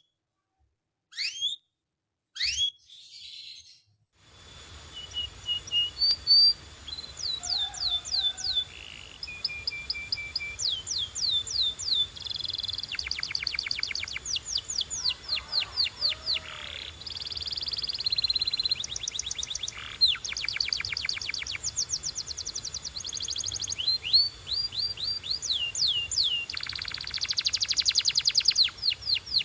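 Domestic canary singing: a few separate chirps, then from about four seconds in a continuous song of fast rolling trills of rapidly repeated notes, broken by held whistled notes.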